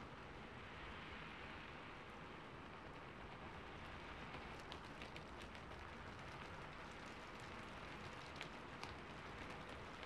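Steady rain falling, with scattered sharp ticks of drops from about halfway through and again near the end.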